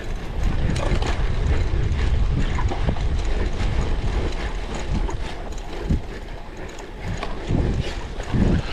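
Cyclocross bike being ridden over rough ground: the rear hub's ratchet ticking and the drivetrain rattling, with clicks and knocks over a steady low rumble and a louder knock near the end.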